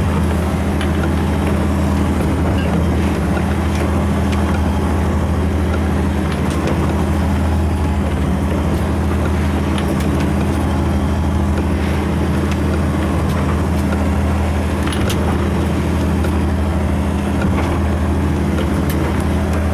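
Perkins diesel engine of a Mitchell 31 motorboat running steadily under way, a constant low drone with a rush of noise over it and a few faint knocks.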